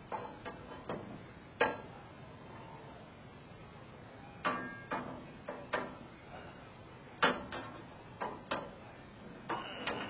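Irregular sharp metal clicks and clanks of steel scaffolding cross braces being fitted onto the frame pins.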